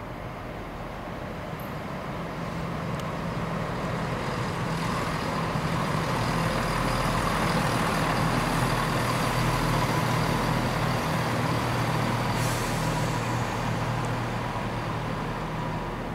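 A train passing slowly through the station: a steady low engine drone with a whine near 1 kHz grows louder to a peak just past the middle, then fades.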